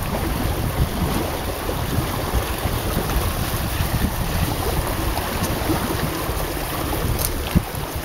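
Wind buffeting the microphone with water rushing along the hulls of a Hobie Cat catamaran under sail, a steady rumbling noise.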